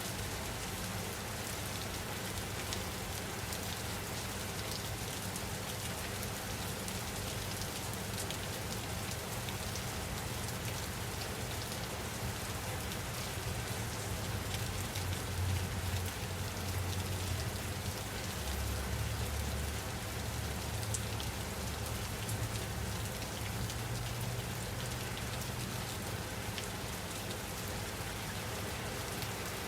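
Steady rain falling: an even hiss with a fine patter of drops. A low rumble swells about halfway through, then eases.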